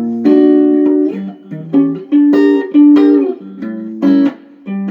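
Guitar playing a run of extended and altered jazz chords, about seven struck one after another, each left to ring for a moment before the next.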